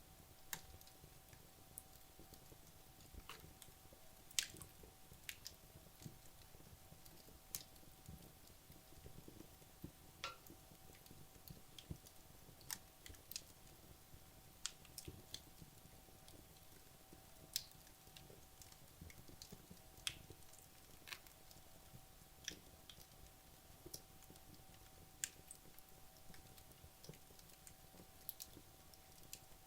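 Wood logs burning down in a fireplace, giving off sparse, irregular sharp crackles and pops over a faint low rumble of the fire.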